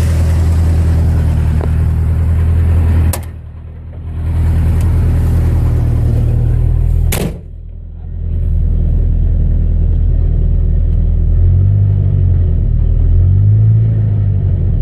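1988 Ford Ranger's 2.3-litre four-cylinder engine idling steadily, a bit loud because the exhaust pipe is broken off ahead of the muffler. Two sharp knocks about three and seven seconds in, each followed by a brief drop in level.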